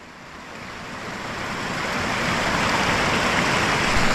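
Rushing water of a mountain waterfall and stream, a steady loud hiss that fades in over the first two seconds.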